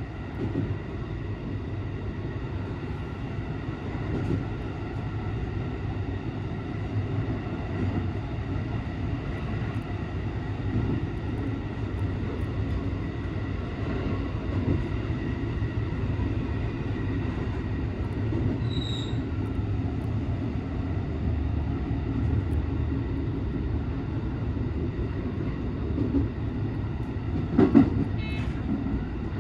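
JR West 223 series 2000 electric train running along the line, heard from the driver's cab: a steady rumble of the running gear and wheels on the rails. A brief high beep sounds about two-thirds of the way through, and a short loud clatter comes near the end.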